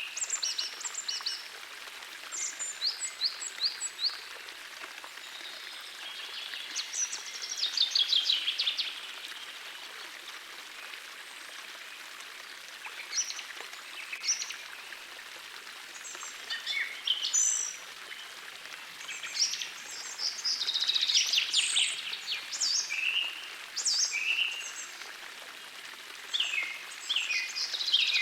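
Gentle forest stream running steadily, with several songbirds singing over it in short chirps and fast trills, busiest in the second half.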